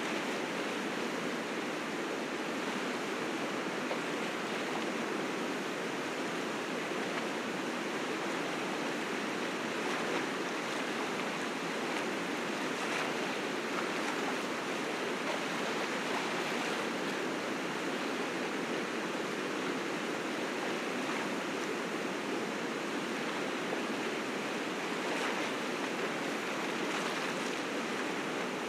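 River rapids rushing, swollen with spring snowmelt: a steady, unbroken roar of white water.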